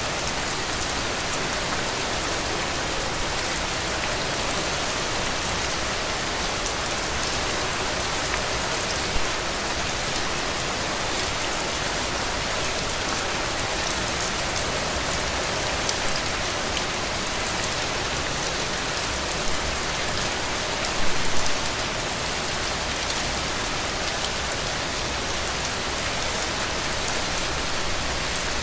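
Heavy rain falling steadily in a dense, even hiss, with a few sharper, louder drop hits here and there, a short cluster of them a little past two-thirds of the way through.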